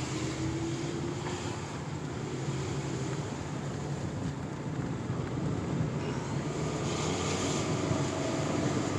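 A 2004 Toyota Camry on the move: steady engine and road noise, with the engine note rising slowly as it accelerates, twice. The engine pulls smoothly, no longer sluggish or misfiring by the driver's account.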